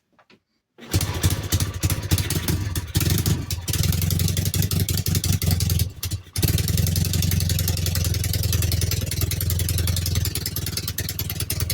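Triumph T140V Bonneville's 750 parallel-twin engine firing up from a cold start on choke and running. It falters twice, nearly dying about six seconds in, then picks up and runs steadily.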